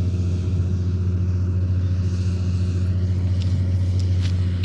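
Combine harvester running steadily at working speed: a constant low engine drone, with a few faint light ticks in the last second or so.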